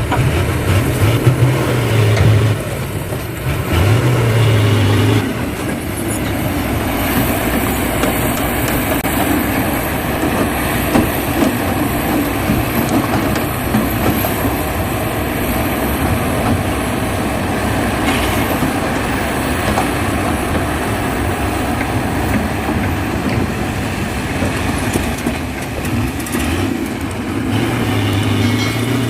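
Heavy diesel machinery running steadily, its engine rumble swelling louder for a few seconds near the start and again near the end.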